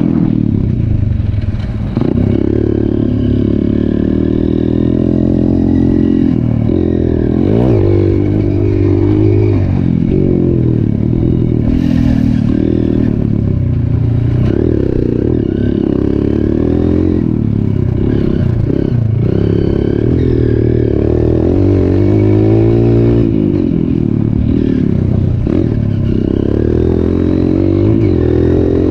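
Trail motorcycle engine running, its pitch rising and falling as the throttle is opened and closed.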